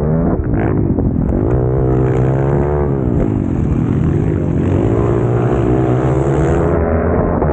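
Pit bike's small single-cylinder engine revving hard under racing load, its pitch repeatedly falling and climbing again as the throttle is worked, with dips just after the start and about three seconds in.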